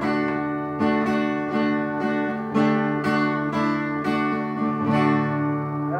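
Acoustic guitar strumming chords, each strum ringing on, as the closing instrumental bars of the song after the last sung line.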